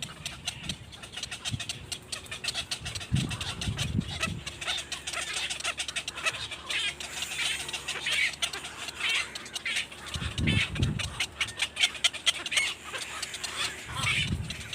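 Birds giving quick, repeated high chirps and clucking calls, with a few low thuds at about three, ten and fourteen seconds in.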